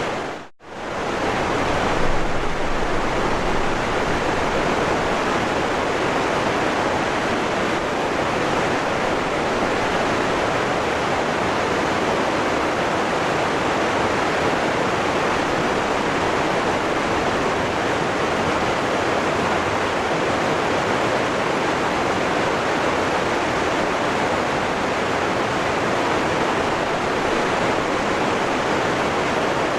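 Waterfall rushing, a steady dense roar of falling water. It dips almost to silence for a moment about half a second in, then carries on unchanged.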